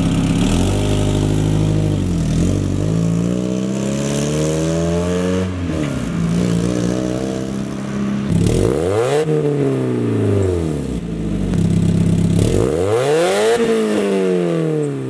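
1996 Mazda Miata's 1.8-litre four-cylinder engine with the catalytic converter removed, running through a performance exhaust and being revved about five times, the pitch climbing and dropping each time, with the last two revs the highest. Way too loud, and raspy.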